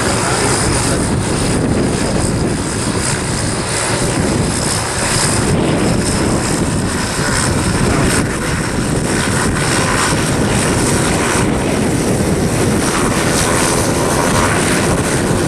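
Helicopter lifting off, its rotor and turbine running steadily and loudly, with wind buffeting the microphone.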